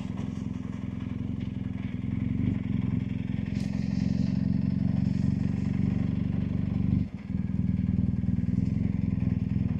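BMW R1250GSA's boxer-twin engine running steadily on the move, with a brief dip in its note about seven seconds in.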